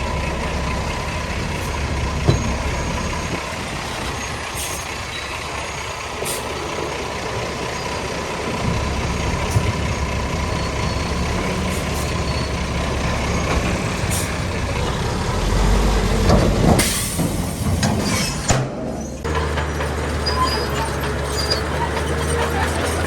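Diesel engines of heavy earthmoving machinery running, a deep steady rumble that swells and eases, with a loud hissing burst about seventeen seconds in.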